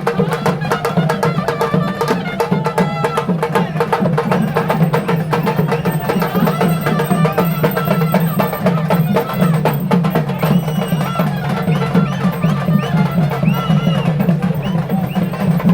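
Fast, dense drumming from a traditional percussion group, with voices chanting and calling over it.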